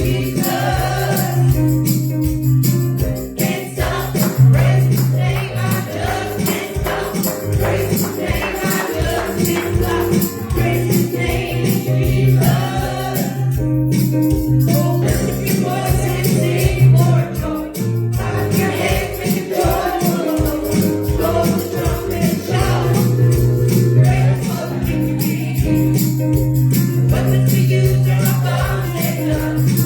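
Live worship music with singing, over a band with a steady beat and long held bass notes.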